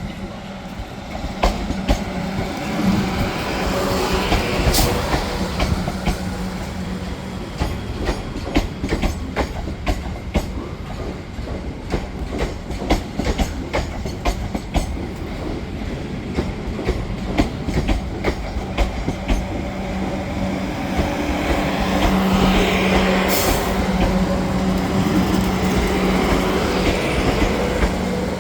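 Two coupled Class 444 Siemens Desiro electric multiple units pulling into a station, the wheels clicking over rail joints and pointwork with a steady electric hum underneath. A brief squeal of wheels or brakes comes near the end as the train slows.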